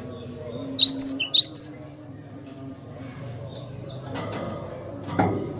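Cinereous tit (glatik batu) calling: a quick run of four loud, sharp chirps about a second in, with fainter chirps around them. A short noisy burst comes near the end.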